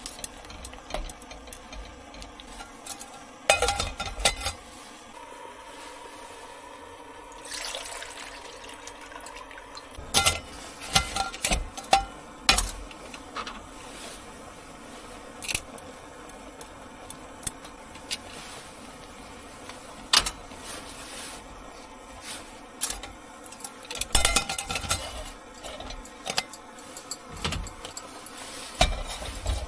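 Cookware and utensils being handled: scattered clinks, clicks and knocks, with a few seconds of running or pouring liquid about a third of the way in.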